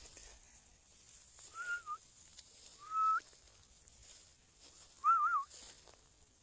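Three short, clear whistled notes about a second and a half apart, the last one warbling up and down.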